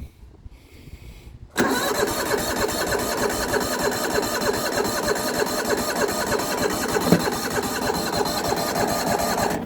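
Yamaha YT6800 garden tractor's starter cranking the engine steadily for about eight seconds without it catching, starting suddenly after a short quiet moment and stopping near the end. The engine is not firing, which is taken to be fuel not yet reaching the carburettor.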